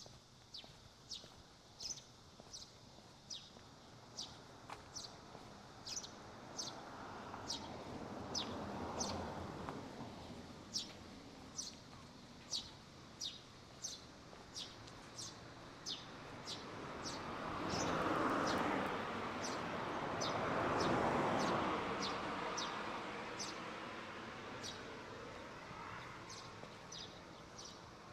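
A bird repeating a short, high, falling chirp about once a second. Twice the noise of a passing vehicle swells up and fades under it, the louder pass about two-thirds of the way through.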